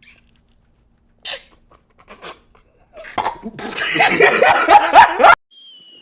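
Comedy sound effects: a few short blips, then about three seconds in a loud laughing burst with quick rising yelps that cuts off suddenly. After it comes a single whistle falling slowly in pitch, like a dropping bomb.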